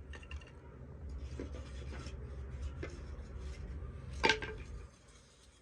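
Cooking pots and utensils clinking and knocking a few times, with one louder clank about four seconds in, over a low steady rumble that fades near the end.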